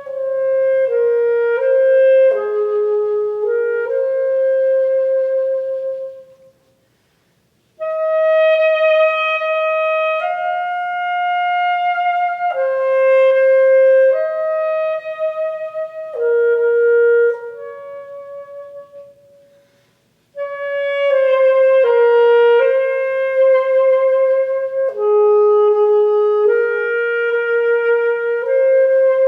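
Solo wind instrument playing a slow melody of held notes in three phrases, with brief pauses about 7 and 20 seconds in.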